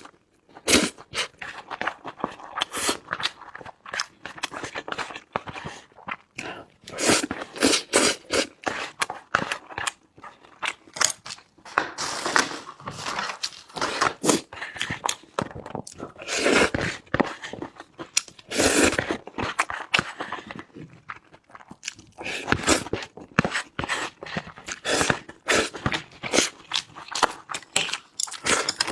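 A person eating: chewing and biting food with many irregular crunches and wet smacks, one after another.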